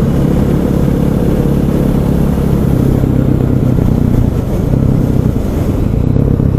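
KTM 500 EXC's single-cylinder four-stroke engine running steadily while the motorcycle is ridden, with wind noise over the microphone. The engine note eases briefly about four to five seconds in.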